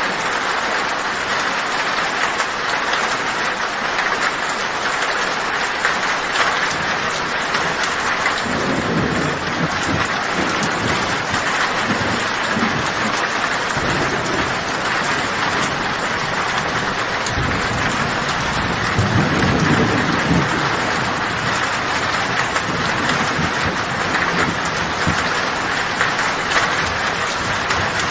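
Heavy rain drumming on a metal tin roof in a steady hiss, with rolling thunder rumbling in from about eight seconds in and swelling again about two-thirds of the way through.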